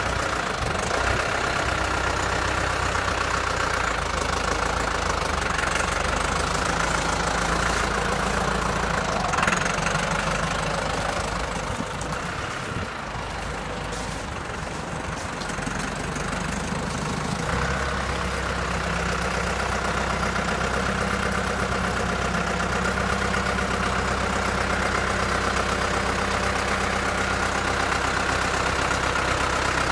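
AGCO Allis 6690 tractor's Deutz four-cylinder air-cooled diesel idling steadily; the engine note wavers and drops a little for a few seconds about halfway through.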